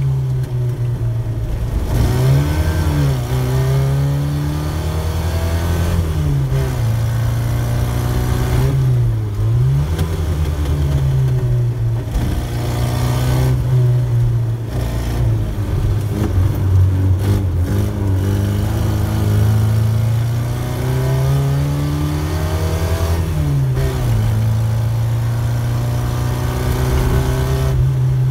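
Triumph Herald's four-cylinder engine heard from inside the car while it is driven hard. The engine note climbs as it revs up, then drops sharply at each gear change before climbing again, several times over.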